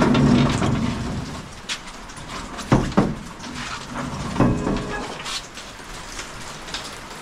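Rain pattering steadily on a shed roof, with a few sharp knocks and bumps about three seconds and four and a half seconds in.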